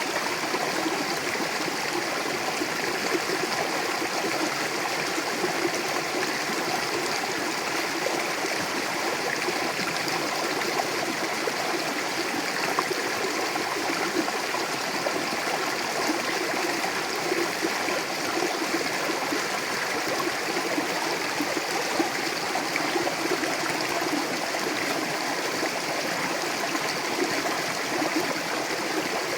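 Mountain river flowing over rocks: a steady rushing and gurgling of fast water.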